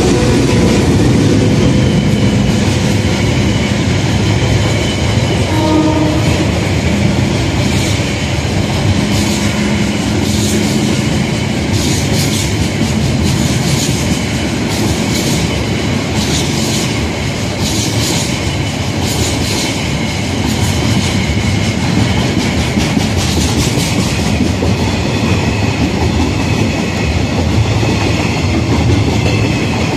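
A diesel-hauled freight train passing close by: the locomotives' engine note dies away in the first couple of seconds, then the container wagons roll past with a steady rumble and repeated clicking of the wheels over the rail joints.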